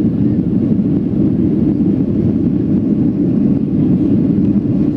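Steady, loud cabin noise of a Boeing 757-200 climbing after takeoff: its two Rolls-Royce RB211-535E4 turbofans at climb thrust and the airflow over the fuselage, a dense low rumble without breaks.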